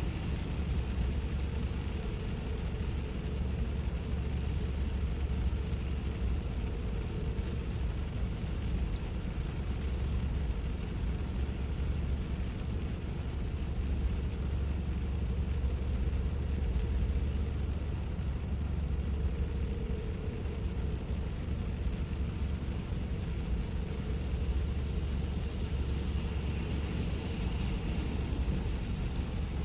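Car cabin noise while driving on wet roads with the windows up: a steady low road and tyre rumble, with a brief rise in higher hiss at the start and again near the end.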